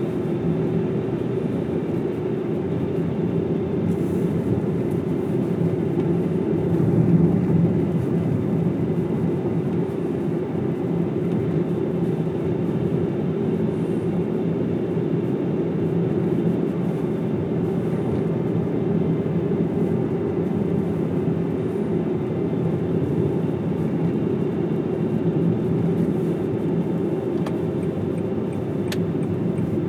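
Steady road and engine noise of a car driving, heard from inside the cabin, with a slight swell about seven seconds in.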